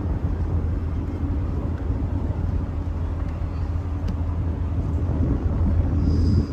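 A river tour boat's engine running steadily, a constant low drone.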